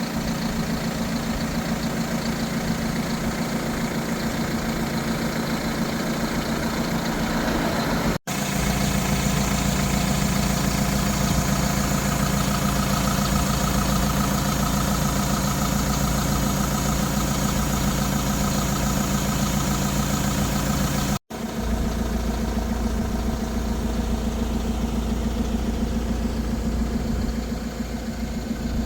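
DAF LF 180 truck's 4.5-litre diesel engine idling steadily, with a low even hum. The sound cuts out for an instant twice.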